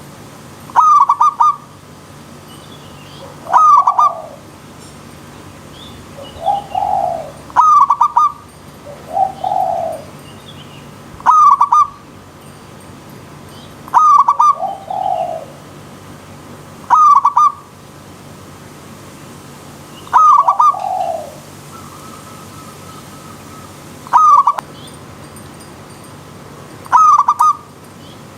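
Zebra dove (perkutut) cooing: nine loud, short, clipped phrases about three seconds apart, with softer, lower coos after several of them. Faint high chirps from small birds run over a steady background hiss.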